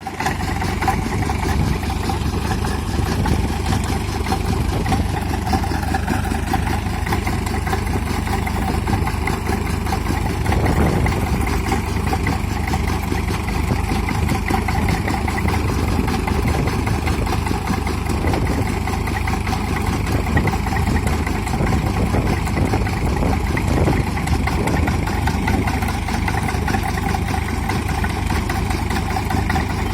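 Sonalika 745 tractor's diesel engine running steadily at a constant pace, with no clear rise or fall in revs.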